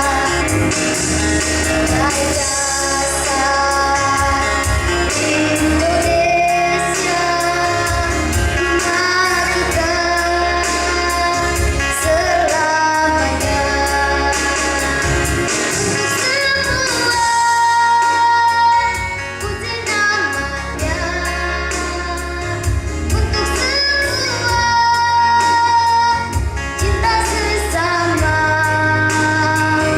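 A child singing in a high, piercing voice over instrumental accompaniment, holding long sung notes.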